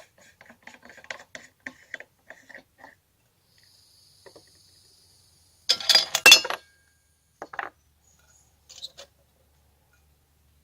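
Camp dishes and cookware clinking and clattering as they are handled: light taps over the first three seconds, a louder clatter about six seconds in, then a few single knocks.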